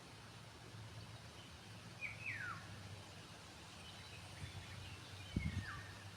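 Small birds calling faintly: two whistled calls that fall steeply in pitch, about two seconds in and again near the end, with faint higher chirps between them. A steady low hum runs underneath, and a short low thump comes near the end.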